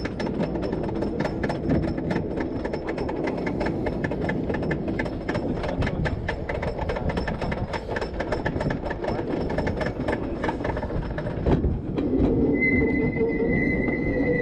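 Wooden roller coaster train running over its track: loud rumbling with rapid, dense clattering. Near the end there is a thump, followed by a steady high-pitched whine.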